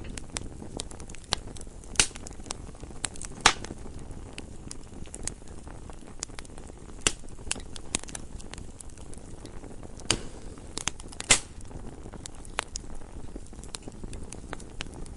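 Campfire burning with a steady low rumble and irregular crackles, a few sharper pops and snaps standing out.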